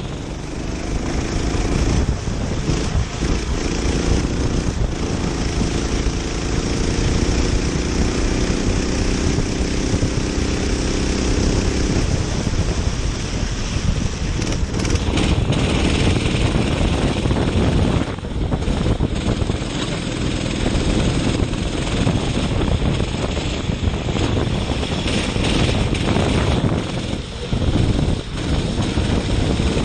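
Go-kart engine running at racing speed, heard from onboard, with wind buffeting the microphone. The engine's pitched note stands out for the first dozen seconds, then is mostly buried in wind and wet-track road noise.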